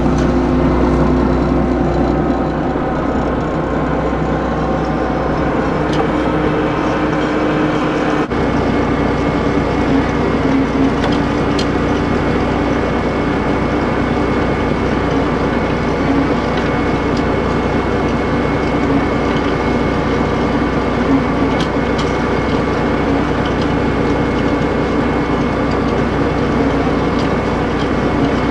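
A fishing boat's engine and deck machinery running steadily, a loud constant hum. Its pitch pattern shifts abruptly about eight seconds in.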